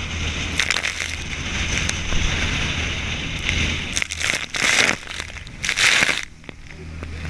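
Boat engine running with a steady low hum while strong wind gusts buffet the microphone in loud, sudden rushes, the biggest about four and six seconds in.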